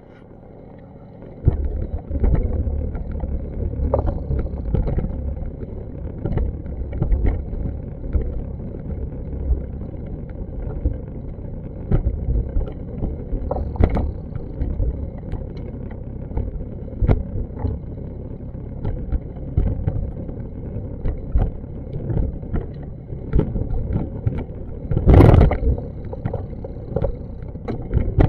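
Muffled, low rumble of outdoor city noise picked up by an action camera's microphone, with frequent small knocks and one louder knock about 25 seconds in.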